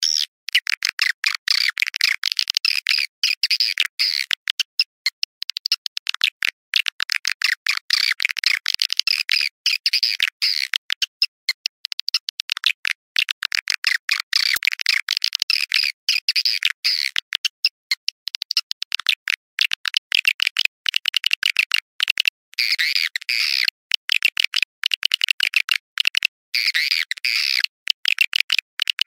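Recorded swiftlet calls: a dense, fast twittering of high chirps, broken by many short sudden gaps. This is the kind of looped call track played to lure swiftlets into a nesting house.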